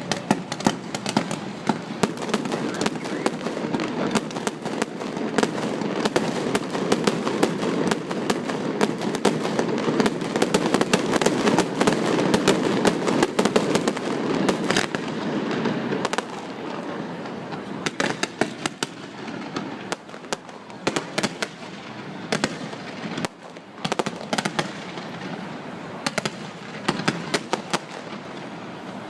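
Fireworks display: a dense run of cracks and bangs that goes on without a break, thinning to more spaced-out, separate bangs about halfway through.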